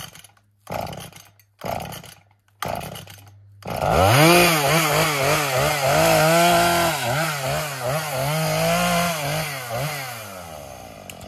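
Gas chainsaw idling with a few short knocks, then throttled up about four seconds in. Its pitch dips and recovers repeatedly as it cuts through a small tree and branches, then it drops back toward idle near the end.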